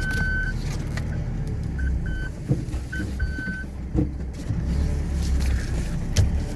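A 4x4's engine running at low revs while reversing, with high reversing beeps: one longer beep at the start, then several short ones over the next few seconds. A few sharp knocks sound through it.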